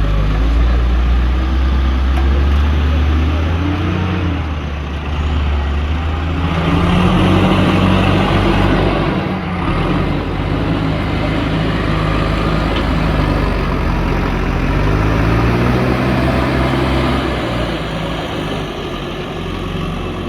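JCB backhoe loader's diesel engine running loud under load, revving up and down several times as it works.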